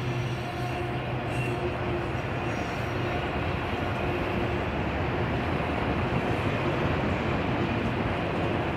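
Freight train of autorack cars rolling past at speed: a steady, unbroken noise of steel wheels running on the rails.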